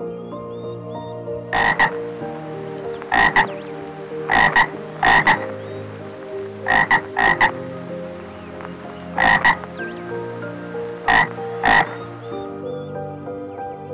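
An animal's short, harsh calls repeating every second or two, some in quick pairs and one run of three, over background music with steady held notes.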